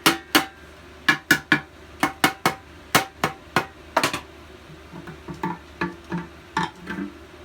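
Hammer taps knocking a part loose on a small edger engine being torn down. The sharp knocks come in quick groups of two or three for about four seconds, then give way to a few lighter knocks.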